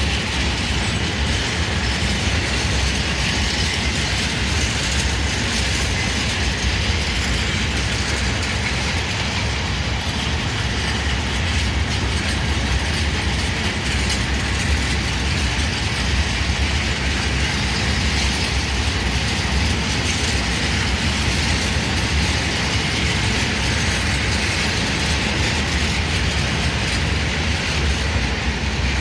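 Freight train wagons rolling past on the rails: a steady, loud rumble and rattle of wheels and wagons, with no break.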